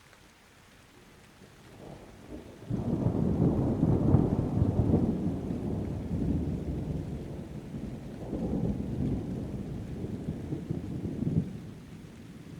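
Rolling thunder over rain: a low rumble builds about two seconds in, breaks loud, swells again partway through, and fades away near the end.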